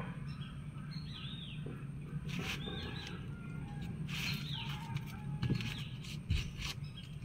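Small birds chirping again and again in short, falling calls, over a low steady hum, with a few brief knocks.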